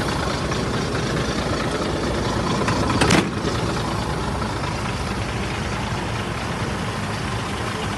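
Scania 93 truck's 9-litre six-cylinder diesel engine idling steadily, with a short, loud burst of noise about three seconds in.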